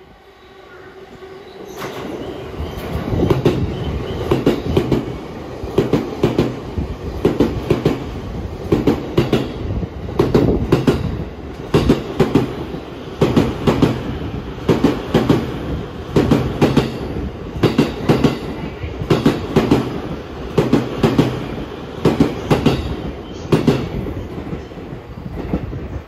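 JR East E257 series electric train, two sets coupled, passing through the station without stopping. Its wheels clack over the rail joints in a steady clickety-clack, with a cluster of clacks about every second and a half, after the noise builds over the first couple of seconds.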